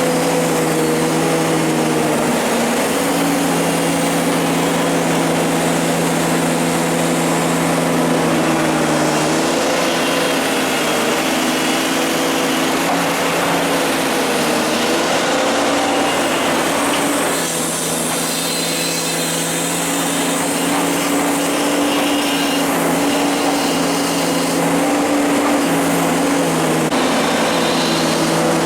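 Komatsu hydraulic excavator's diesel engine running steadily under working load. Its pitch dips and rises now and then, and it eases off briefly about two-thirds of the way through.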